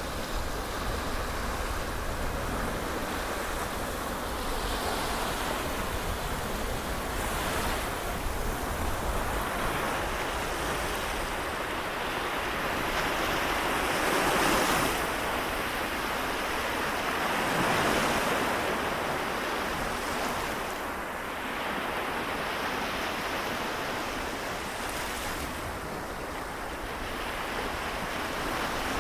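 Small waves lapping and washing on the Seto Inland Sea shore in a continuous wash, swelling louder about halfway through and again a few seconds later. A low rumble of wind on the microphone runs under it in the first half.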